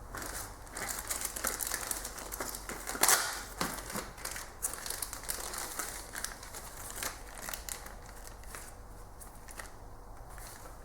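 Irregular small clicks, rattles and rustling from hand work on the engine's top end, tools and parts being handled. They are busiest in the first half, loudest about three seconds in, and thin out towards the end.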